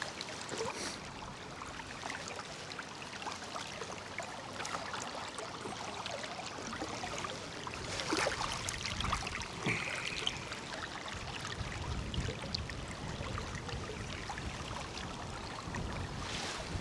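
River water flowing and rippling as a steady wash, with a few short splashes or knocks around the middle.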